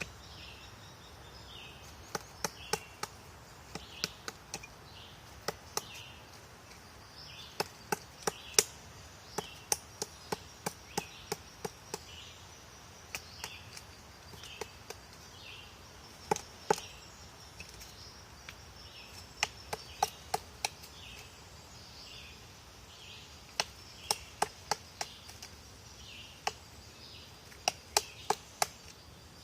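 Woodpecker pecking at wood: sharp, irregular taps, some single and some in quick runs of three or four, with pauses of a second or more between them.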